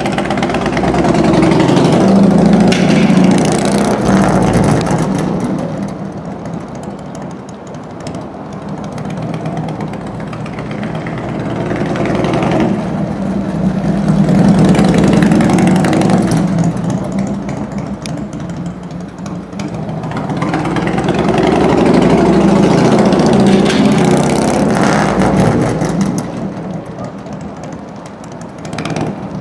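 Harley-Davidson Evolution air-cooled V-twin on a 1997 FLSTC Heritage Softail Classic, running and revved up and let back down three times, each swell lasting a few seconds.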